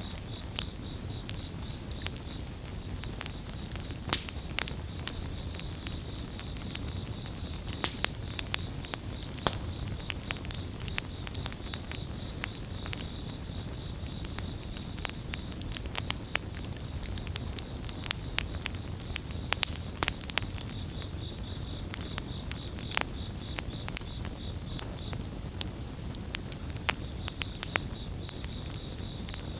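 Campfire crackling, with frequent sharp pops over a low rumble of burning wood. Crickets chirp in a fast steady pulse in the background, falling silent for several seconds around the middle.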